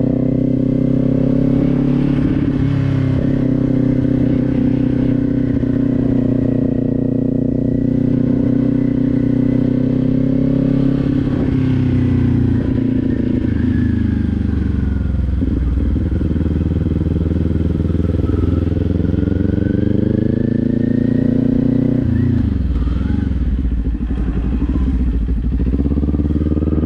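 Kawasaki Z400's 399 cc parallel-twin engine running under way, at a steady cruise at first. About halfway through the engine note sags and then climbs again; about 22 seconds in it drops sharply as the throttle is rolled off, then rises once more near the end.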